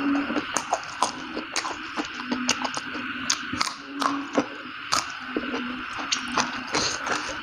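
Close-up eating sounds of a man chewing spicy instant noodles and raw green chili: many quick wet clicks, smacks and crunches from the mouth, with a few short low hums.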